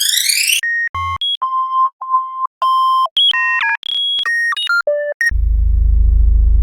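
Synthesized electronic beep sound effects: a quick rising chirp, then a run of short beeps at changing pitches, several repeating on one middle pitch. A little over five seconds in, a steady low electronic buzz takes over.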